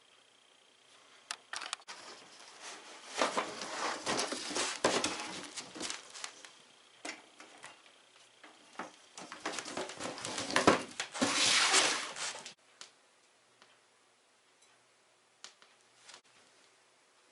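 Handling noise: irregular rustling and scraping with scattered light knocks, in two spells lasting until about twelve seconds in.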